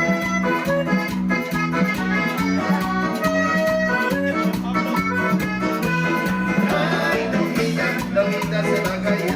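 Live Latin dance music from a keyboard-led band: an accordion-like melody over a steady bass and an even percussion beat.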